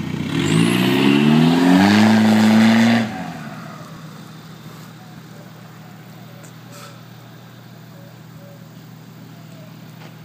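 2001 Volkswagen Golf TDI's 1.9-litre four-cylinder turbodiesel with a straight-piped exhaust, revved up in one steady climb and held briefly. About three seconds in it drops back to a steady idle.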